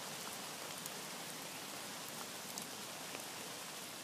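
Steady rain falling, an even hiss with scattered ticks of single drops landing.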